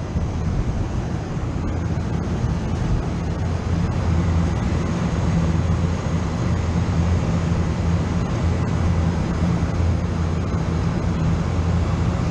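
Refrigeration machinery running with a steady, loud low hum over a hissing noise while the system's refrigerant is being emptied.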